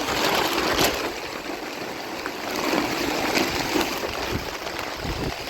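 Heavy rain falling steadily, with a few short knocks.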